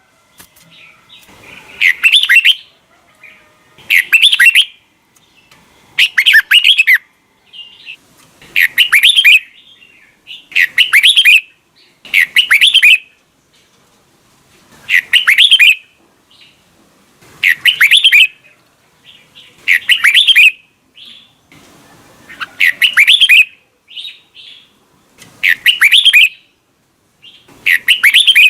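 Red-whiskered bulbul song: short, loud, warbling phrases repeated about every two seconds, the wild 'double-note' style of song played to train caged bulbuls.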